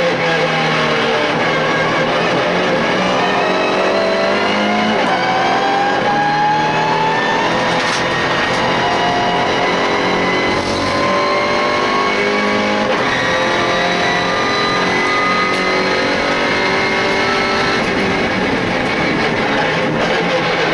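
MINI Challenge race car's engine running hard under acceleration, heard from inside the cockpit. The pitch climbs in several long rising sweeps with brief breaks between them.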